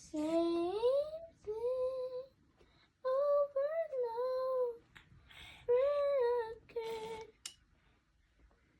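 A child singing unaccompanied in a high voice: about five short phrases of held, sliding notes with brief pauses between them, the first sweeping upward in pitch.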